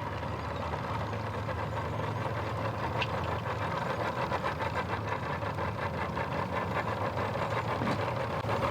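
An engine idling steadily, a low even hum with a fine regular pulse.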